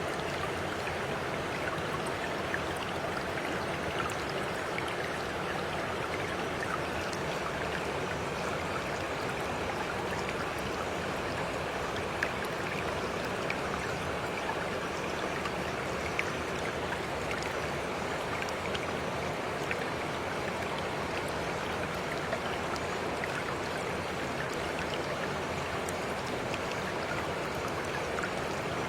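Stream water flowing steadily, an even rushing babble sprinkled with tiny splashing ticks.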